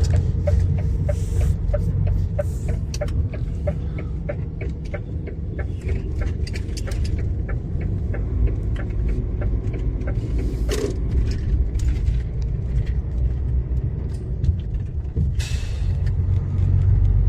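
Steady low rumble of a vehicle driving, heard from inside the cab, with an even ticking of about three ticks a second for the first several seconds. Two brief rushing swells come later, one about eleven seconds in and one near the end.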